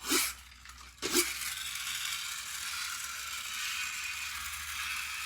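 A Hess 2001 toy helicopter: a couple of clicks, then a steady whirring from its sound and motor feature that runs about four seconds.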